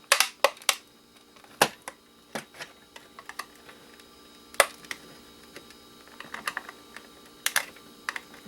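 Scattered, irregular light clicks and taps of a hard plastic electronics casing being handled and poked with a tool while looking for hidden screws.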